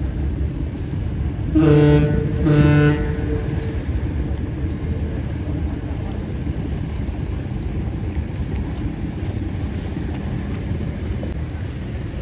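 A ship's horn sounds two short blasts about a second apart, near the start, over steady wind and wave noise.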